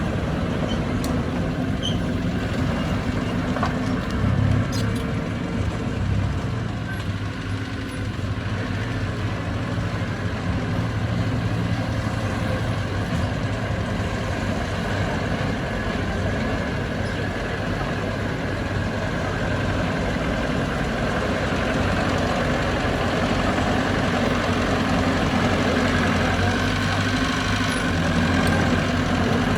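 Heavy diesel construction machinery running steadily at work, its engine note rising and falling a little now and then.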